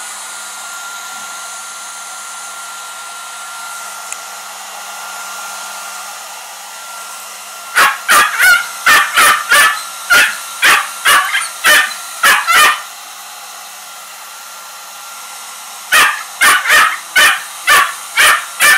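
Hair dryer blowing steadily on its cold setting with a faint whine. Over it a Shiba Inu barks in quick runs of about three barks a second: one run starting about eight seconds in and lasting about five seconds, and another starting about sixteen seconds in.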